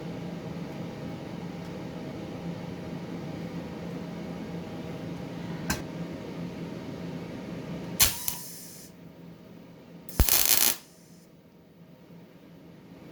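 Steady electrical hum of a MIG welder, which stops after a sharp click about eight seconds in. A half-second burst of hissing noise follows about two seconds later.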